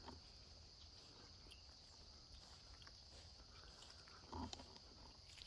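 Near silence: a faint outdoor background with a steady high-pitched hiss, a few faint ticks, and one soft, brief sound about four and a half seconds in.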